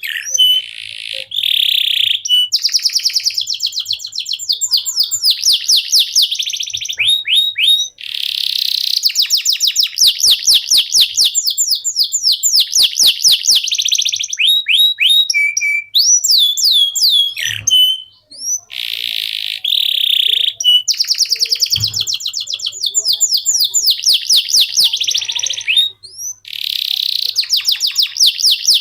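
Canary singing a long, loud song of fast rolling trills and quick rising whistled notes, phrase after phrase with only brief breaks.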